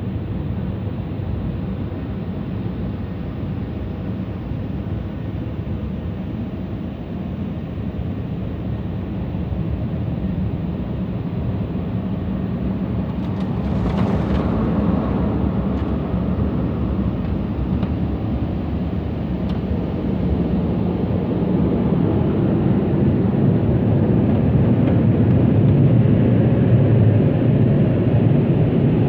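Tammermatic T700 rollover car wash machinery running, heard from inside the car: a steady low rumble and rush. There is a short sharper burst of noise about halfway through, and the sound grows louder over the last third.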